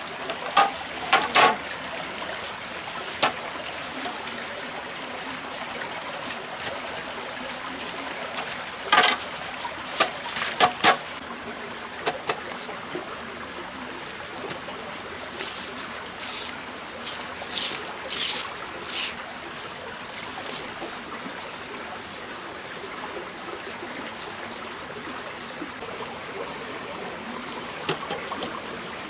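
Small stream trickling and running steadily. A few sharp clicks and knocks stand out about a second in and again around nine to eleven seconds, and a run of short hissy bursts comes around sixteen to nineteen seconds.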